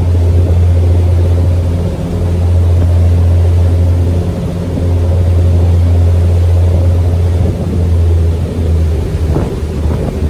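Sightseeing boat's engine running steadily, a loud low drone heard from on board.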